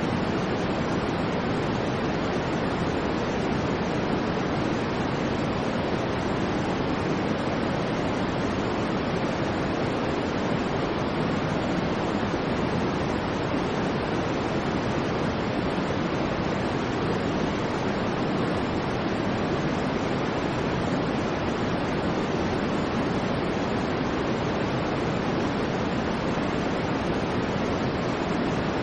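Steady synthetic white noise, an even hiss weighted toward the lower pitches, holding constant with no rise or fall.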